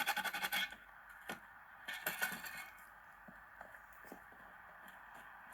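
Rotten wood of a door frame being scraped and rasped away by hand: a quick run of scraping strokes at the start, another short burst about two seconds in, then a few faint ticks and knocks.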